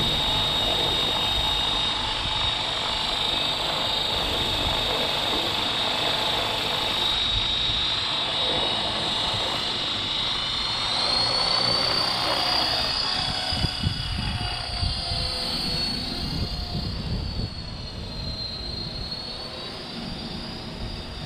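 Electric 450-size RC helicopter in flight: a steady high motor and rotor whine that rises in pitch about halfway through, dips briefly near the end and climbs again, with wind rumbling on the microphone.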